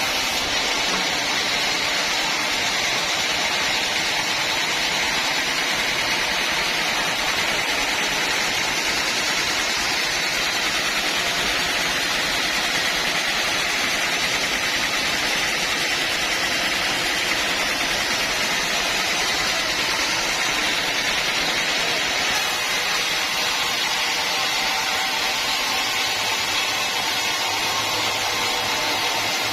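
Band sawmill running steadily, a constant hiss of blade and engine noise that does not rise or fall.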